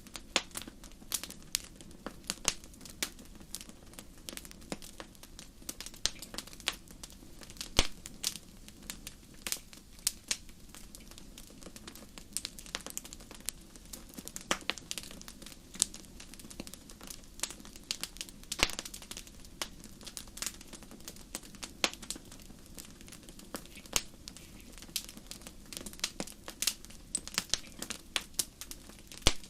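Wood fire crackling in a fireplace: irregular sharp pops and snaps, several a second, over a low steady noise.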